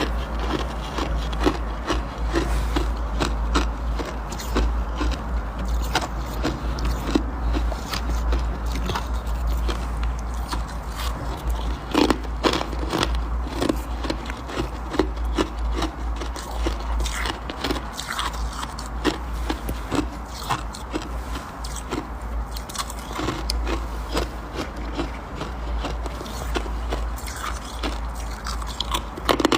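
Close-miked biting and chewing of soft, powdery freezer frost: a dense, irregular run of small crunches, with a few louder bites. A steady low hum runs underneath.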